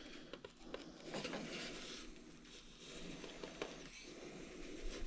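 Faint rustling and light clicks of hands working foam model-airplane parts, pushing a stick through a hole in the tail section.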